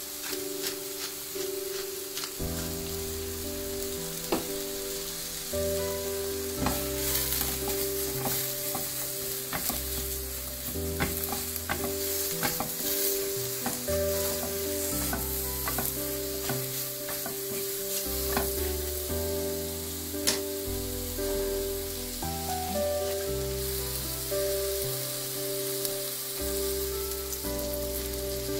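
Sliced mushrooms sizzling in oil in a nonstick frying pan while a silicone spatula stirs them, with many small clicks and scrapes of the spatula against the pan. Background music with a slow-changing bass line runs underneath.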